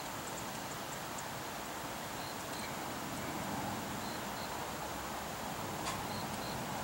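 Distant train coming out of a long tunnel, a low rumble slowly building. Insects chirp over it in short repeated bursts.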